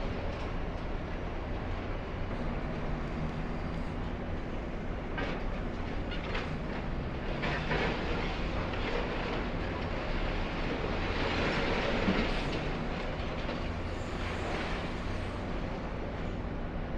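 High-reach demolition excavator's diesel engine running steadily, with rough crunching and clattering of concrete and rubble being pulled down in waves, loudest about twelve seconds in.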